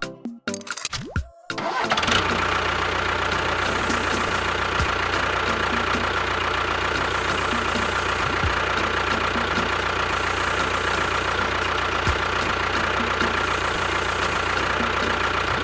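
A small motor starts about a second and a half in and runs steadily with a constant whine, stopping just after the end.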